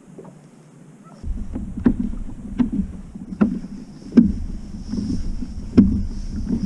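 Kayak moving through choppy water: a low rumble of water and wind with a knock or splash repeating about every 0.8 seconds, starting about a second in.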